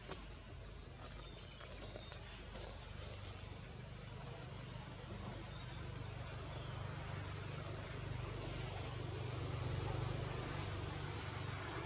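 Forest ambience: a bird repeats a short, high, dipping whistle every three to four seconds over a faint steady hiss. A low steady hum underneath grows slightly louder in the second half.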